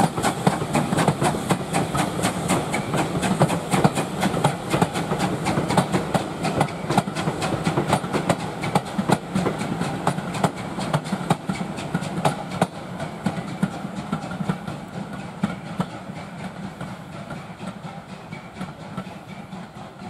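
Railway carriages rolling past, their wheels clattering rhythmically over the rail joints, fading as the train draws away.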